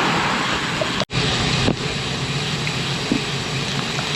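Steady wind rush and tyre noise from riding a bicycle, with a sudden brief dropout about a second in where the recording is cut.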